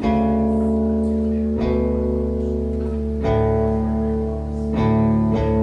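Guitar playing the opening chords of a live song. Each chord is struck and left ringing, changing about every second and a half, over a steady low bass.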